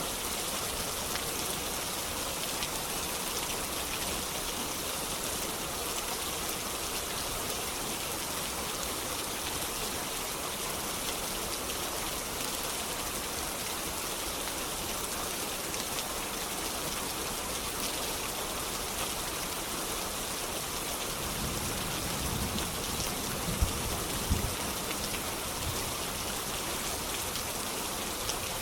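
Steady rain pattering on a surface, an even hiss. About three-quarters of the way through, a low rumble of distant thunder rises for a few seconds, with two sharp cracks inside it.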